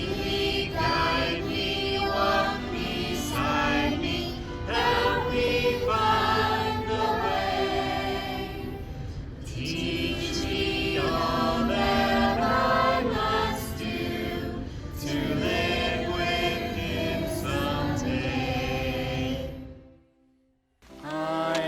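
A choir singing a sacred song with musical accompaniment; the music fades out about twenty seconds in, leaving a moment of silence.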